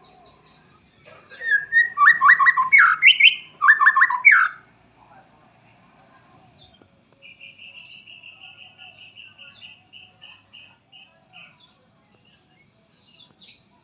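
White-rumped shama singing: two loud bursts of rapid sweeping notes, then after a pause a quieter run of evenly spaced notes that slows and fades.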